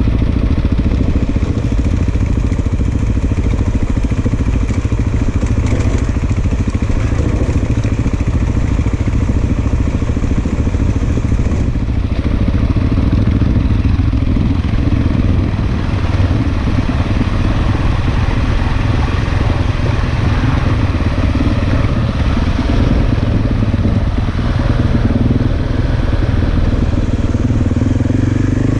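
Large single-cylinder dual-sport motorcycle engine running steadily and loudly while riding, heard from on the bike.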